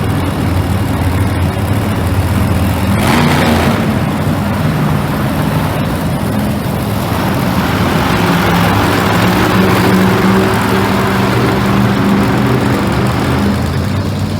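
Monster truck engine running loud, its pitch stepping up and down as it is revved, with a short burst of noise about three seconds in.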